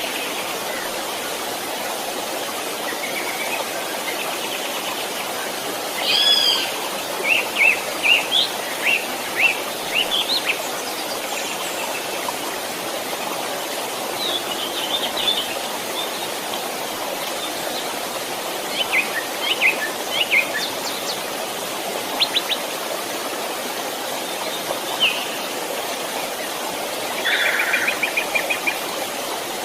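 A stream running steadily, with birds singing in short bouts of chirps and whistles over it, and a rapid trill near the end.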